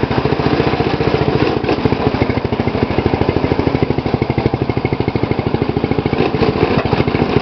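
Small lawn tractor engine, the 2012 MTD's, running steadily with an even, rapid firing pulse.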